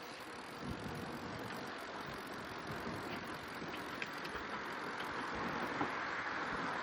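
Steady rush of wind and tyre noise from a moving bicycle, slowly growing louder.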